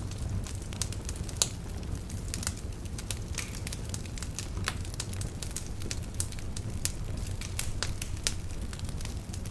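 Logs burning in a fireplace: a steady run of irregular sharp pops and snaps over a low, even rumble, with one louder pop about one and a half seconds in.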